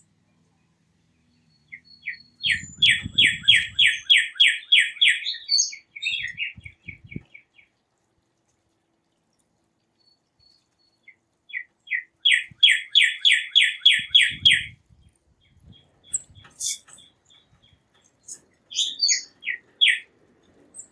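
A songbird singing twice, each time a fast run of about ten repeated, down-slurred whistled notes. Scattered higher chirps from other birds come between the runs and near the end.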